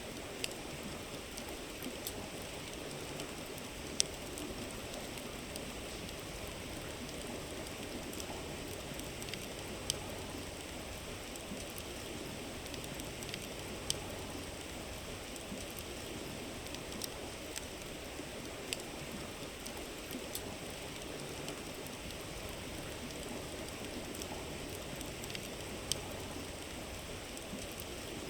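A river running steadily, with a wood campfire crackling over it. Sharp pops come every few seconds; the loudest is about four seconds in.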